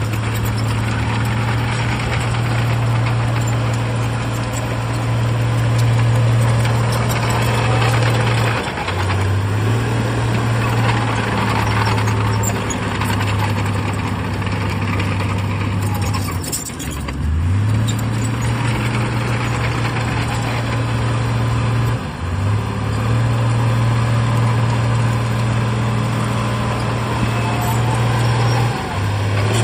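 Diesel engine of a Shantui bulldozer running steadily under load, mixed with the noise of working machinery. The engine note dips briefly and recovers four times, about 9, 17, 22 and 29 seconds in.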